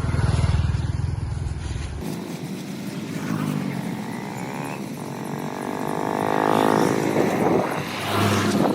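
A vehicle engine running, cut off abruptly about two seconds in; later an engine note rises in pitch for a couple of seconds.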